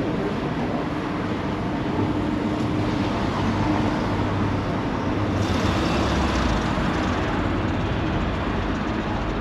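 Engine running steadily, a continuous rumble with a low hum, growing louder and hissier about halfway through.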